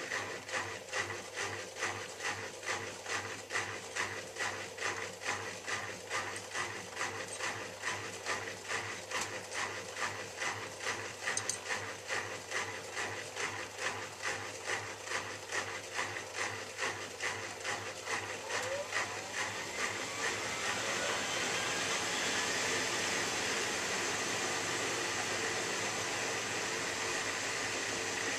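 Miele W3744 washing machine drum turning with a regular swish about twice a second. About two-thirds of the way through, the motor's whine rises and the sound evens out into a steady rush as the drum speeds up for a spin.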